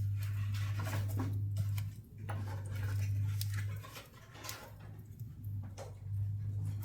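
Firewood crackling and popping in a wood stove, with a loud low hum that swells and breaks off every second or two.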